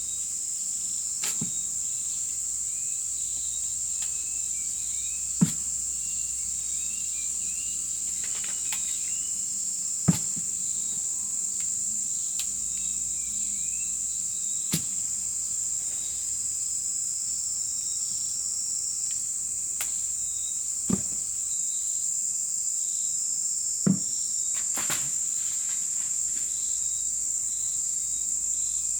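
Steady, high-pitched insect chorus, with a few faint bird chirps in the first third. Sharp single knocks break in every few seconds, the loudest about five and ten seconds in.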